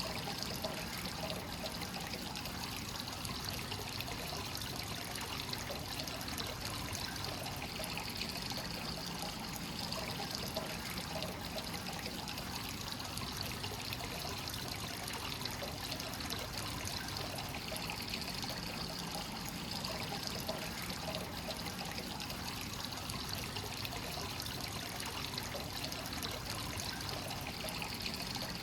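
Free-flowing hot spring water pouring steadily into a bath, with a continuous trickling and splashing.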